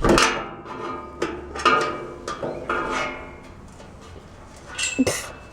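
Sheet-metal barbecue grill panels clanking and ringing as tools and parts knock against them: about six sharp strikes in the first three seconds, each leaving a brief metallic ring, and one more knock near the end.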